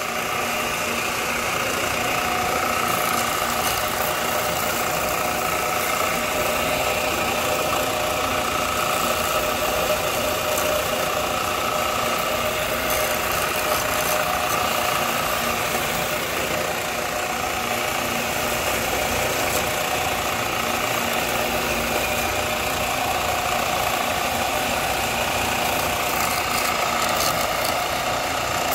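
A machine's motor running steadily, with a constant hum of several steady tones.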